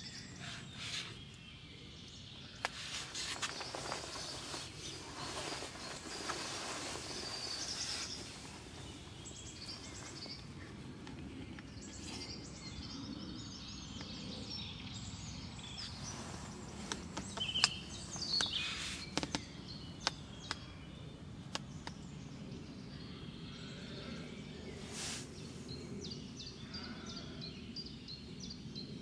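Outdoor ambience of songbirds chirping and calling over a steady background hiss, with a few sharp clicks about two-thirds of the way through.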